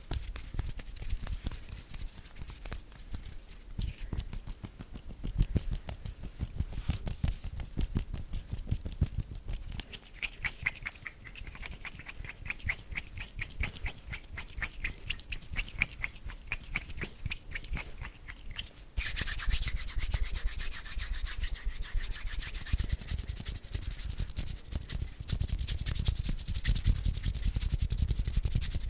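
Close-miked bare hands rubbing and brushing against each other in quick, dense strokes. About 19 s in, the sound changes suddenly to a brighter, hissier rub.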